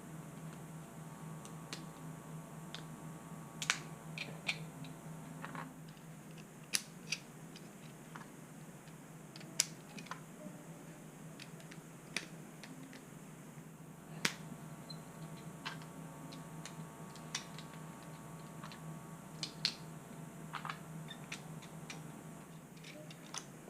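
Lego bricks and plates clicking and tapping as pieces are handled and pressed together: irregular sharp clicks every second or two over a faint steady hum.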